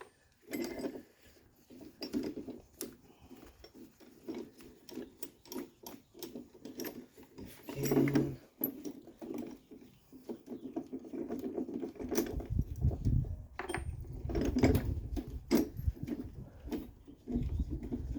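Irregular metallic clicks and clinks of a spring compressor's parts and nuts being handled and worked loose off a strut's coil spring, with denser low scraping and handling noise over the last few seconds.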